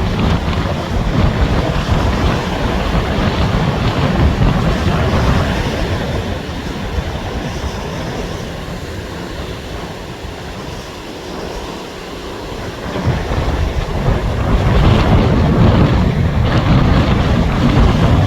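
Strong gusty wind buffeting the microphone over stormy surf breaking on the shore. The gusts ease through the middle and build again near the end.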